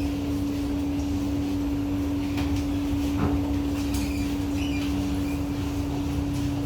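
SMRT C151A metro train humming steadily, one unchanging mid-pitched tone over a low rumble.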